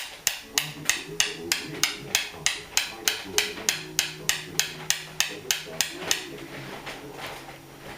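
Bump key in a pin-tumbler lock being struck with a bump hammer: a steady run of sharp metallic taps, about three a second, that stops about six seconds in.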